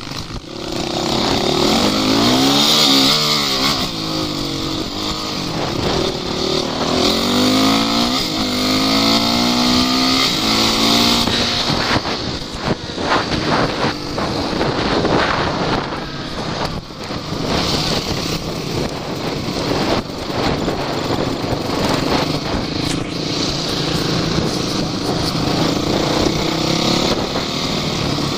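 Off-road vehicle engines revving hard under load, the pitch rising and falling several times, with engine noise throughout.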